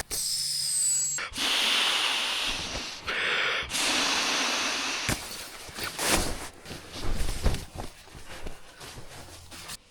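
Sleeping pad being set up and inflated: several long rushes of air in the first five seconds, then scraping and rustling of nylon that fades near the end.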